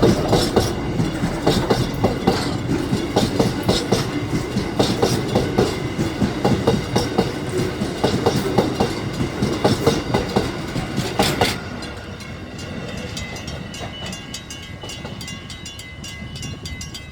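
Container freight train's wagons rolling past, wheels clacking over rail joints in a rapid, uneven rhythm. About eleven and a half seconds in, the clacking stops and the sound drops to a quieter rumble with a thin high ringing.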